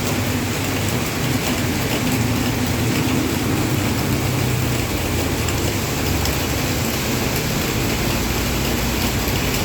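Heavy rain falling steadily, with a low hum underneath.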